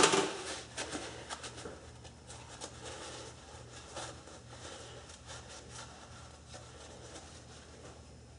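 Small tools or parts being handled at a workbench: one sharp knock right at the start, then faint scattered clicks and taps that die away over a low steady hum.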